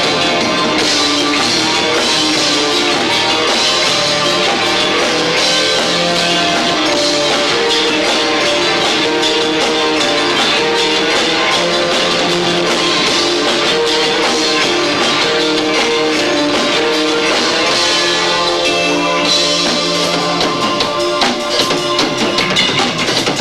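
Live rock band playing loud and hard, with drum kit and electric guitar.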